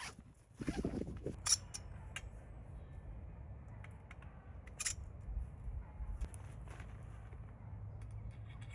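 Strong wind buffeting the microphone as a steady low rumble, with a rustling burst about a second in and a few scattered light clicks.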